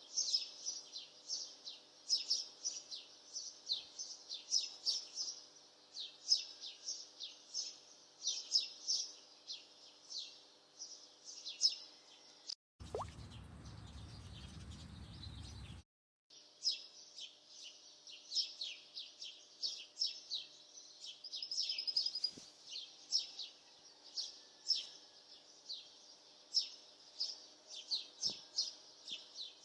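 Small birds chirping in rapid, repeated short calls over a faint steady hum, broken by a few seconds of a different low sound a little before the middle.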